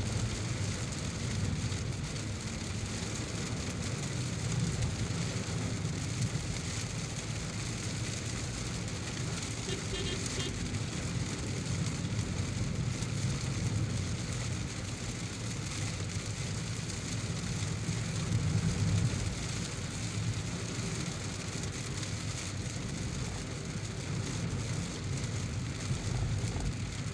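Car driving in heavy rain: a steady hiss of rain and wet road noise over a low engine and tyre rumble.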